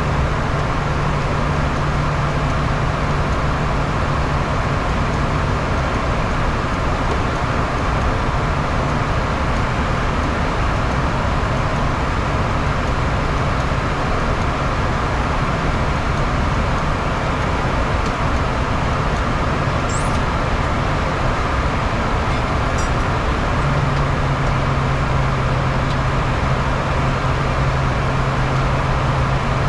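Steady airflow and jet-engine noise heard inside a Bombardier Challenger 350 business jet in the climb after takeoff. Under it runs a low, even hum that fades out around six seconds in and comes back strongly about 23 seconds in.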